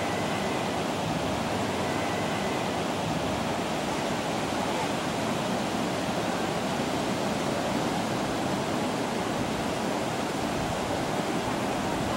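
Ocean surf breaking and washing up the beach: a steady, even rush of water.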